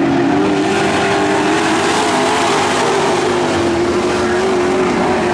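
Several pro trucks racing together on a dirt oval, their engines running hard at a steady pitch that wavers slightly as they circle, with tyre and track noise underneath.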